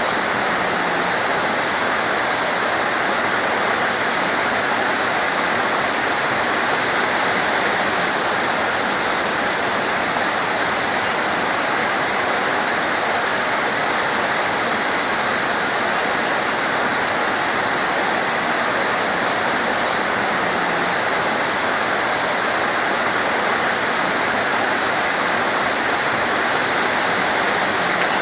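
Torrential rain falling heavily, a dense, steady hiss that does not let up.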